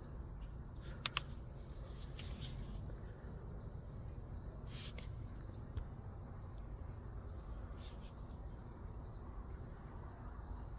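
Crickets chirping in a steady, regular rhythm, with two sharp clicks about a second in and a few fainter clicks later.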